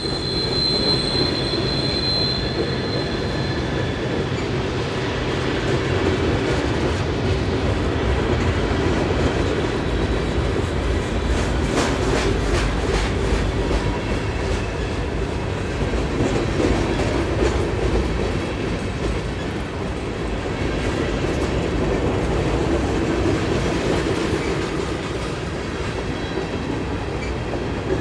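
Union Pacific manifest freight train rolling past, its cars' wheels making a steady rumble and clatter on the rails. A high wheel squeal fades out in the first few seconds, and a run of sharp clicks comes about halfway through.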